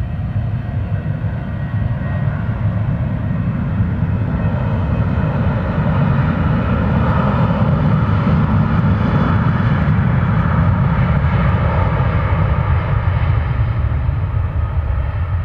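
Jet airliner departing, its engines at takeoff power: a heavy low rumble with a faint whine above it, swelling toward the middle and easing a little near the end.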